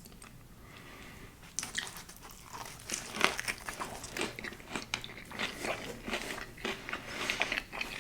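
A person biting and chewing crunchy food, a quick run of crisp crunches starting about one and a half seconds in.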